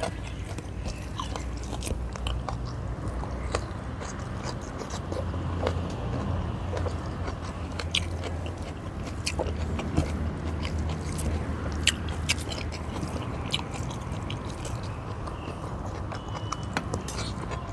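Close-up chewing of a man eating rice and tuna by hand, with many small mouth clicks scattered throughout.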